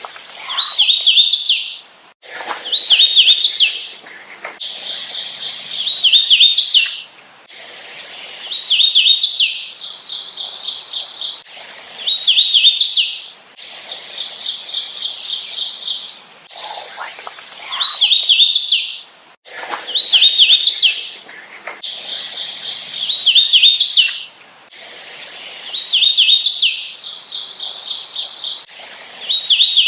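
Hooded warbler singing its song over and over, about every two to three seconds: a run of slurred whistled notes ending in a louder, higher upswept flourish. Between some songs there are quicker runs of evenly spaced notes.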